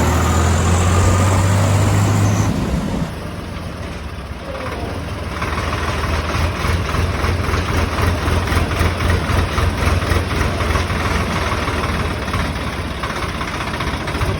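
Swaraj 744 XT tractor's diesel engine running at idle with a rapid, even pulsing beat. A louder, steadier drone fills the first two or three seconds before the sound dips and the idling beat builds up.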